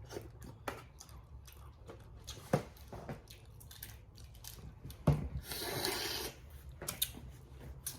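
Crawfish being eaten up close: sharp cracks of shells being broken and peeled, with wet squishing and chewing. A longer slurp runs for about a second a little past halfway.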